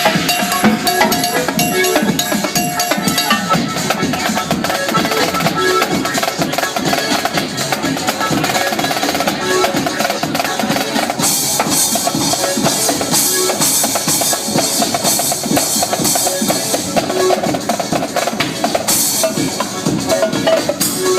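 Live drumming on a Mapex drum kit with Paiste cymbals, busy snare and bass-drum patterns played along with an electronic dance track, with a run of cymbal crashes in the middle and another near the end.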